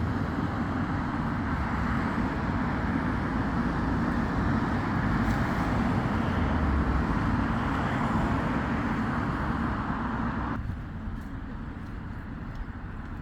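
Road traffic passing: a steady rush of vehicle and tyre noise that swells through the middle, then drops off abruptly about ten and a half seconds in.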